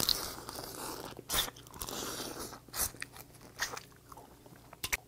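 Close-up eating sounds of a person biting and chewing steamed crab meat: wet mouth smacks with several sharp, separate crunchy clicks.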